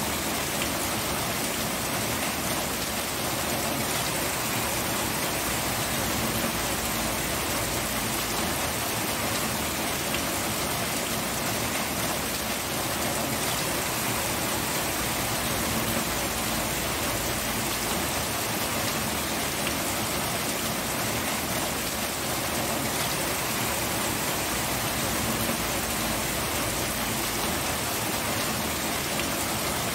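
Steady rain falling on a surface, an even hiss of drops with no lulls or thunder.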